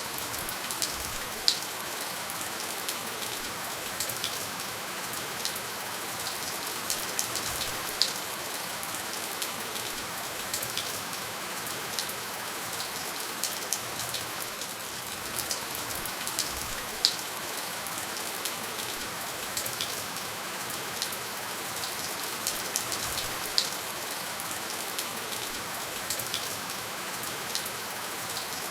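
Steady rainfall, a continuous hiss with many individual drops ticking sharply on a nearby surface, no thunder.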